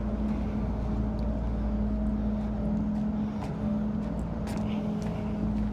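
Refrigeration unit on a 53-foot truck trailer running steadily with an even engine-like drone, cooling the trailer down before it is loaded.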